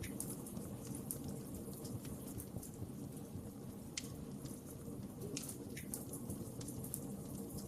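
Wood fire burning with a steady low rumble, crackling and popping at irregular moments, with a few sharper pops about four and six seconds in.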